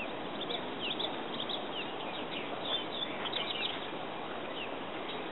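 Small birds chirping: many short, high, quickly falling chirps, mostly in the first four seconds, over a steady hiss of outdoor background noise.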